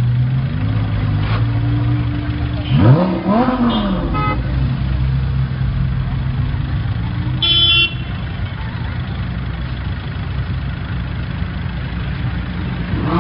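Sports car engine idling with a steady low drone, with one quick throttle blip about three seconds in. A car horn gives a short toot about halfway through.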